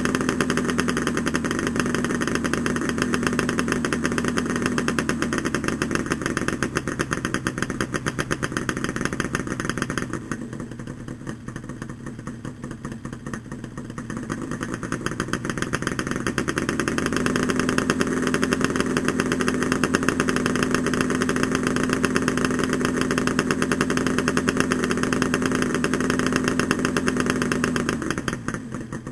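Yamaha RD350LC two-stroke parallel-twin engine running through Micron expansion chambers, held at a steady raised speed. It drops back to a lower, quieter run about ten seconds in, is brought back up a few seconds later and held again, then eases off near the end.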